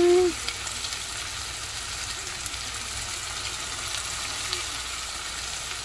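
Corned beef sizzling steadily as it fries in a pan.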